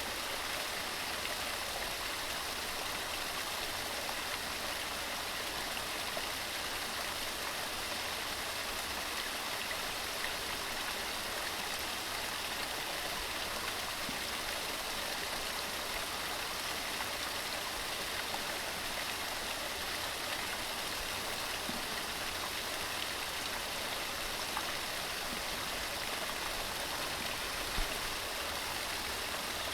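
Waterfall: water tumbling over rocks in a steady, even rush of white noise. There is one brief low bump near the end.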